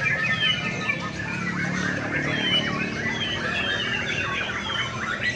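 Many caged songbirds singing at once in a bird-singing contest: a dense, unbroken overlap of chirps, whistled notes and fast trills from many birds, over a low background rumble.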